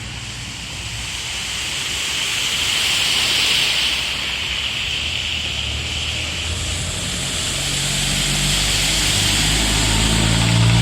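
Road traffic driving through standing floodwater: tyres hiss and spray over engine hum, the noise swelling as vehicles pass, with a heavier engine drone building near the end.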